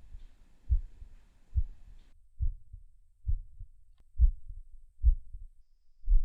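Heartbeat sound effect: seven low, regular thumps a little under a second apart, the last gap slightly longer. A faint background hiss cuts off about two seconds in.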